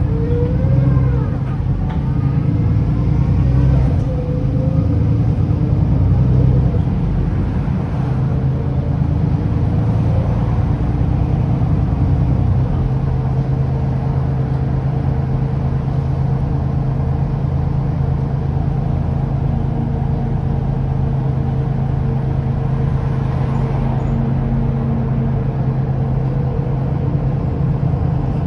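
Mercedes-Benz O530 Citaro city bus with its OM906hLA six-cylinder diesel and ZF automatic gearbox, the gearbox whine rising in pitch as the bus pulls away over the first few seconds, then the bus running steadily.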